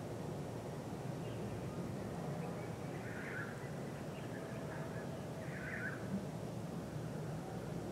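Faint outdoor ambience: a steady low hum, with a bird calling briefly twice, about three seconds in and again a couple of seconds later.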